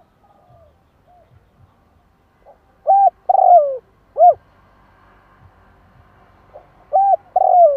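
Spotted dove cooing: a phrase of three loud coos, the middle one longest and falling in pitch, about three seconds in, and the same phrase again near the end. Fainter, softer coos come at the start.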